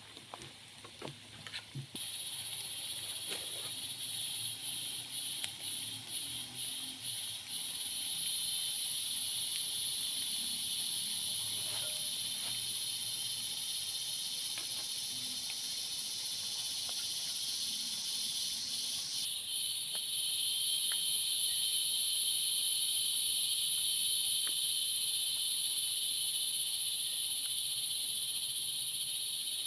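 A chorus of forest insects droning at a high pitch; it comes in about two seconds in, pulses for a few seconds, then settles into a steady drone that changes in tone about two-thirds of the way through.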